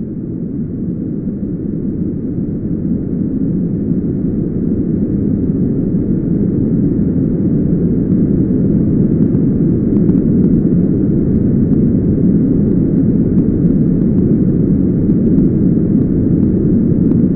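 A deep, dense rumbling noise with no distinct tones that swells slowly louder and then holds: a cinematic sound-design rumble.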